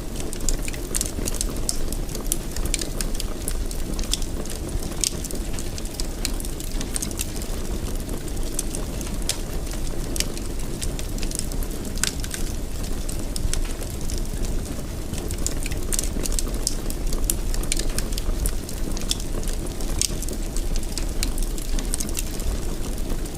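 Wood fire crackling, with frequent sharp pops and snaps over a low, steady rumble of the flames.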